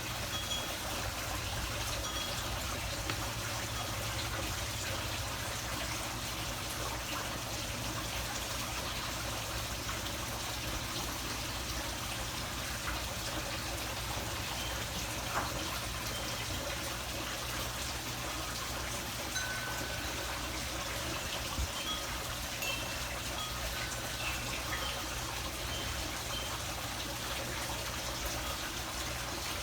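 Steady trickle of running water, even and unbroken, with a few faint short high sounds over it.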